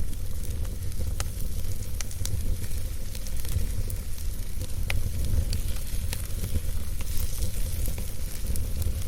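Wood campfire burning, with scattered sharp crackles and pops of the burning wood over a steady low rumble.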